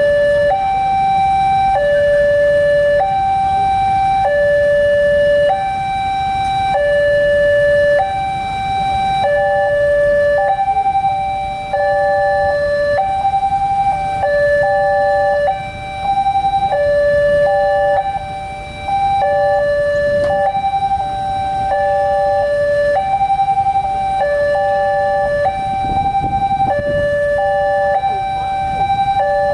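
Railroad crossing warning alarm sounding a steady electronic two-tone hi-lo signal, each tone held a little over a second. About nine seconds in, a second alarm out of step with the first joins in. A low rumble runs underneath.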